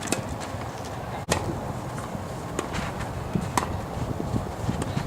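Tennis ball struck by racquets in a doubles rally, sharp pops roughly once a second, over a steady low noise of strong wind on the microphone.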